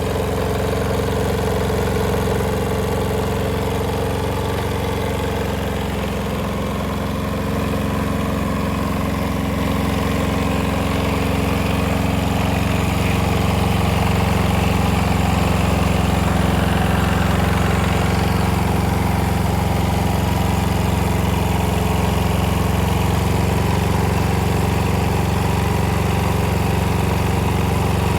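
Yanmar L60 single-cylinder air-cooled diesel engine running steadily, a little louder from about ten seconds in.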